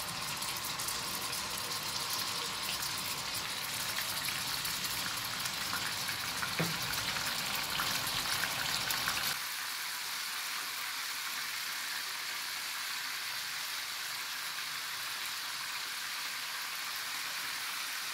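Chicken shashlik skewers frying in hot oil in a nonstick pan: a steady sizzle with fine crackling. About nine seconds in, the low rumble under it stops and a smoother sizzle goes on.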